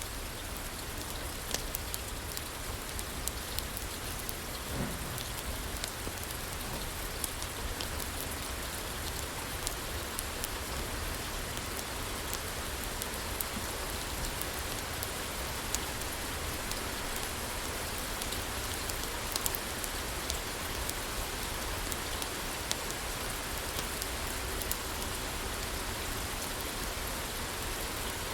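Steady rain falling on a roof, mixed with a wood fire crackling in a fireplace, with scattered sharp pops and ticks.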